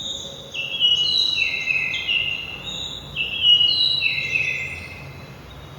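Bird chirping, played as a sparrow's call: two phrases of short, clear whistled notes that step between pitches, each phrase about two seconds long.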